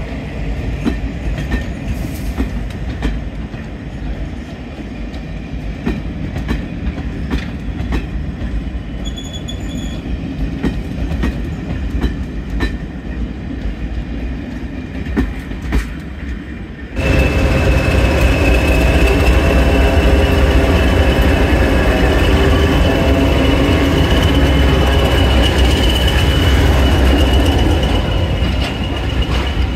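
Passenger coaches rolling slowly past with sharp clicks of the wheels over rail joints. About halfway through it cuts to class 20 diesel locomotives running close by, louder and steadier, with a high steady whine over a deep rumble.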